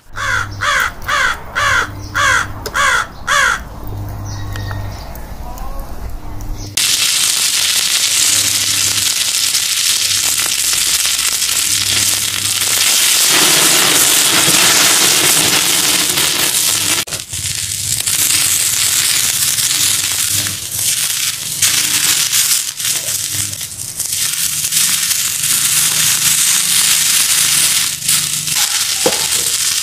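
Meat sizzling and crackling on a hot cast-iron griddle over an open wood fire, a loud steady hiss that starts about seven seconds in. Before it, a run of about six quick calls rising and falling in pitch.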